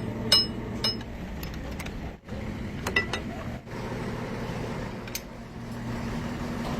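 A few sharp, ringing metal clinks of hand tools on metal parts, a pair of them about three seconds in, over a steady low hum.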